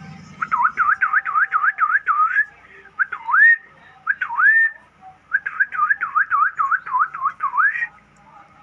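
A bird whistling clear notes: a quick run of dipping-and-rising whistles at about four or five a second, two slower single upswept whistles, then another quick run.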